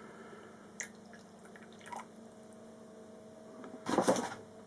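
Water being added to a bowl: a few small drips and clicks, then a short splash about four seconds in.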